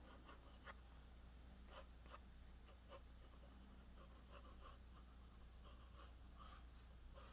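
Faint pencil strokes on paper: many short, quick, irregular scratches of pencil lines being laid down.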